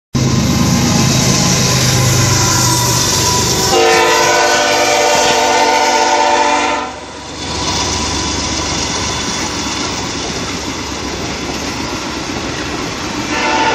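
A diesel locomotive, a BNSF GE ES44C4, passes with a low engine drone and then sounds its air horn, a chord held about three seconds that cuts off sharply. Passenger cars then roll past with a steady rushing rumble of wheels on rail, and a horn-like tone starts again near the end.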